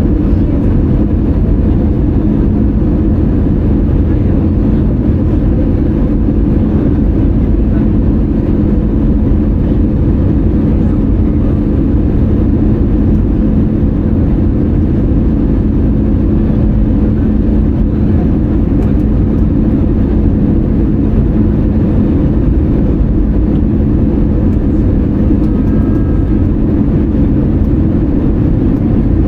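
Airbus A320-200 cabin noise in flight: a steady rush of engine and airflow with a low, constant hum.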